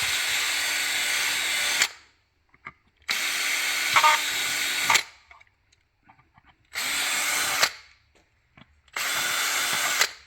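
Power drill run in four short bursts at a steady speed, about two seconds each for the first two and about a second each for the last two, drilling screw holes for speakers in a car's plastic parcel tray.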